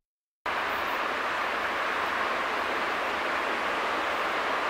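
Electric HÉV suburban train built by LEW Hennigsdorf approaching along the track, a steady rolling noise that slowly grows louder. The sound is cut out for the first half second.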